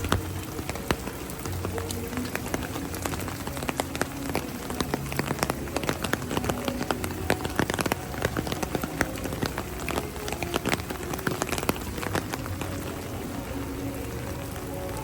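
Heavy rain falling, a dense patter of drops striking surfaces close by. Faint music sits underneath.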